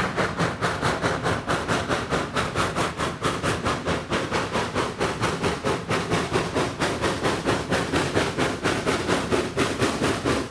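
Steam locomotive working under steam, its exhaust beating in a steady rhythm of about four chuffs a second.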